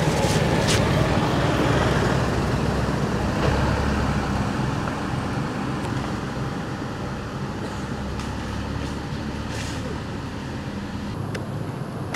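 Road traffic noise: a motor vehicle engine rumbling steadily, loudest in the first few seconds and then easing off a little.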